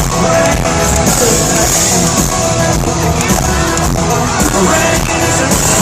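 A live country-rock band with electric guitars and drums playing loudly through a concert PA, heard from the audience.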